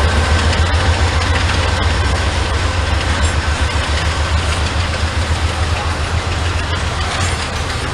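Norfolk Southern freight train running by: a loud, steady low diesel rumble with rail noise over it, slowly fading.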